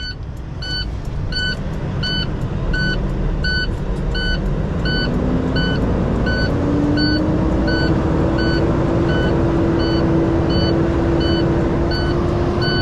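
Semi-truck backing up: a short electronic beep repeats evenly about every two-thirds of a second over the running diesel engine, whose hum rises in pitch about five seconds in and then holds.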